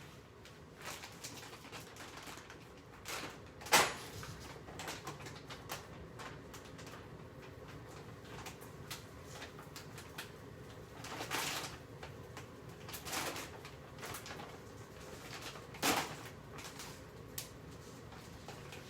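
Scattered knocks, clicks and rustles of kitchen handling, the loudest knock about four seconds in and a few more between about eleven and sixteen seconds.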